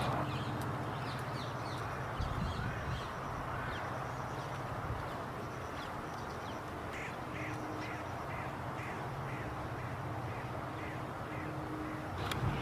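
Park birds calling, with a quick run of short repeated calls in the second half, over a steady low hum.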